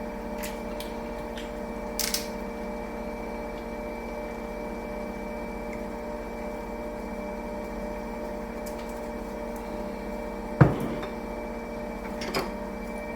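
Steady hum of a running appliance motor, several pitches held level, with a few sharp knocks, the loudest about ten and a half seconds in.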